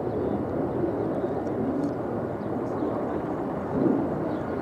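Fighter jet flying, its engine noise a steady low rush that swells briefly about four seconds in.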